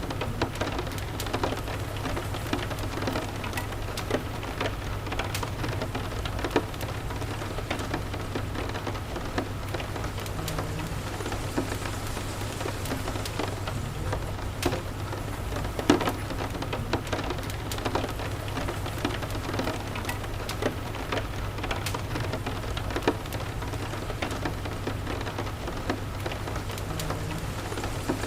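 Steady rain falling, with scattered sharp pops and crackles from a wood fire in a fireplace and a steady low rumble underneath.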